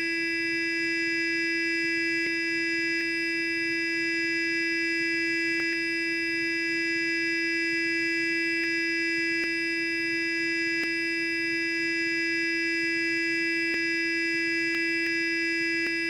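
Sonic toothbrush running continuously: a steady, even buzz at one pitch with bright overtones and a few faint ticks now and then.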